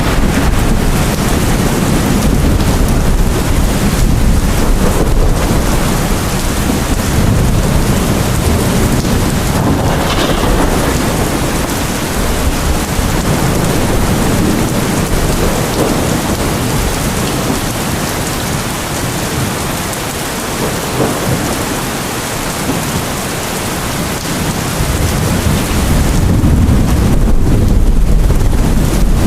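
Heavy rain falling steadily, with a deep continuous rumble of thunder underneath that eases in the middle and swells again near the end.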